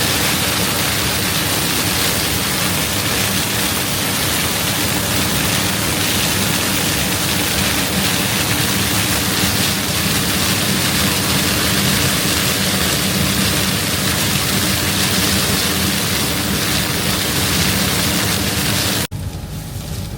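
Heavy diesel harvest machinery running steadily: a low engine drone under a loud, even rush of noise, which cuts off abruptly near the end.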